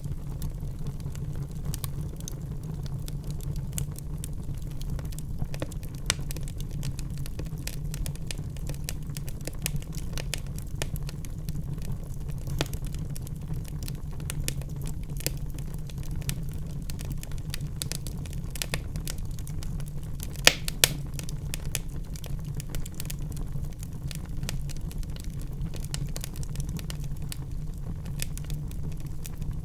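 Wood fire crackling in a fireplace: many small snaps and pops over a steady low rumble, with two sharper pops close together about twenty seconds in.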